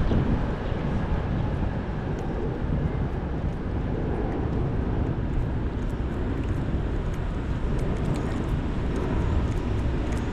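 Steady low outdoor rumble with no distinct event, with faint small ticks in the second half.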